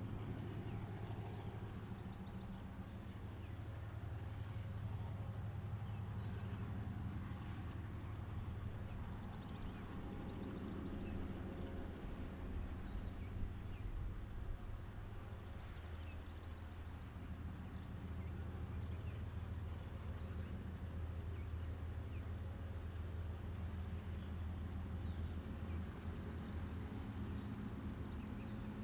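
Quiet outdoor ambience: a steady low rumble with scattered faint ticks, and a high bird trill three times, about eight seconds in, about twenty-two seconds in and near the end.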